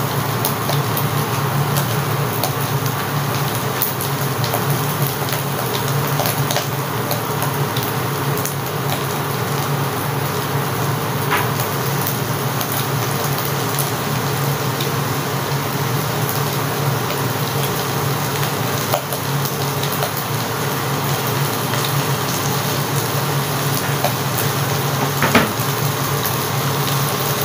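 Diced chicken, ham and hot dog sizzling under a glass lid in a nonstick frying pan: a steady frying hiss with scattered small crackles and pops, over a steady low hum.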